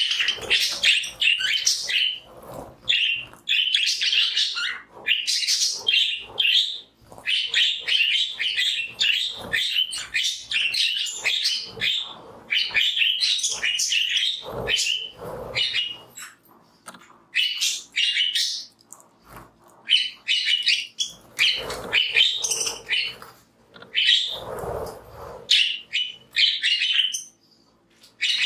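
A flock of pet budgerigars chattering and chirping busily and without pause, many fast overlapping high chirps.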